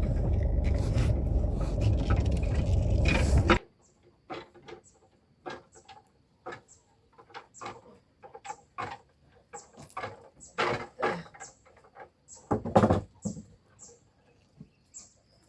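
A loud steady rumbling noise that cuts off abruptly about three and a half seconds in, then a small bird shut in a box scrabbling and tapping against its sides in irregular short bursts, with brief faint high peeps.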